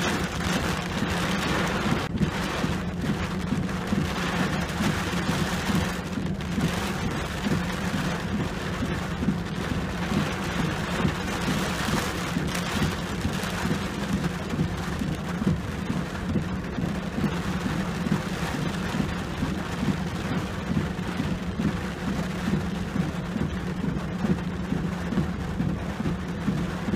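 Steady rain falling on a truck's roof and windshield, heard from inside the cab, over a constant low hum, with the windshield wipers sweeping across the glass now and then.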